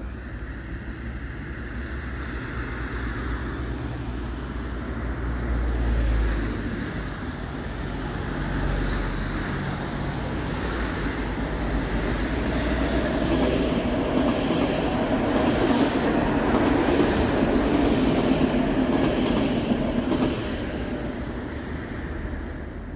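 A passenger train passing on the line below, with a steady rumble of wheels on rail that builds to its loudest about two-thirds through and then eases off.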